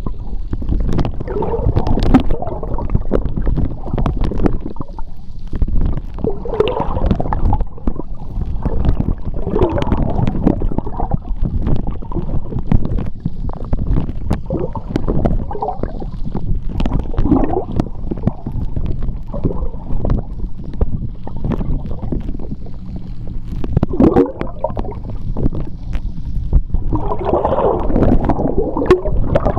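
Seawater heard underwater: a low, churning rumble of moving water with bubbling gurgles that swell and fade every few seconds, and many scattered sharp clicks.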